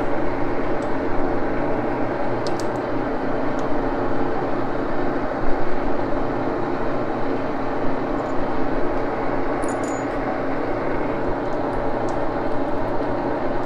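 Axelson engine lathe running steadily: a steady mechanical hum made up of several fixed tones, with a few light clicks.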